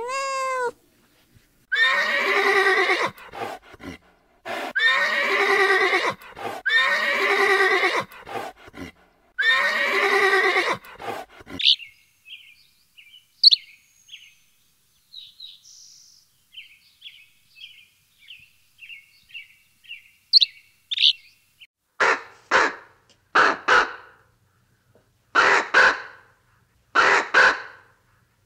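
A string of animal calls: a short cat meow at the start, then four long, wavering calls of about a second each, then a run of faint quick chirps. Over the last six seconds a rook caws repeatedly, the caws often in pairs.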